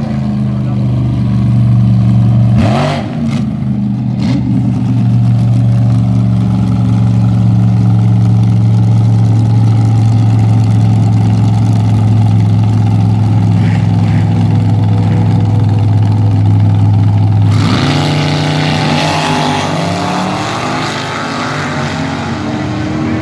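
Front-engine dragster engines running with a steady low drone, then a sudden change about seventeen seconds in to louder, noisier engine sound with revving pitch glides.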